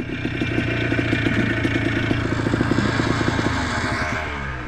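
ATV engine running steadily with a fast rattling clatter, easing off near the end. The rider suspects a failing transmission behind the weird noise.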